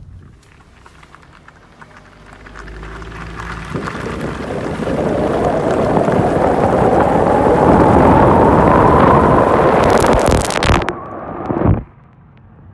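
VW Jetta's headlight washer jets firing while driving, heard from inside the cabin: a loud rush of spraying washer fluid builds over several seconds with a faint rising whine. It crackles briefly, then cuts off suddenly near the end.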